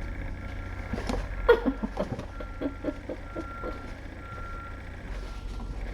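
Faint beeps at one pitch repeating at intervals, like a vehicle's reversing alarm, over a steady low hum. About a second in comes a short run of quick vocal sounds.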